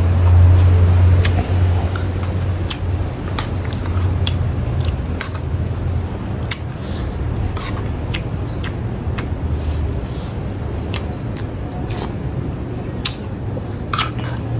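Close-up eating of a spicy beef salad with raw vegetables: chewing with many short wet mouth clicks and smacks scattered through. A low steady hum runs underneath, strongest in the first couple of seconds.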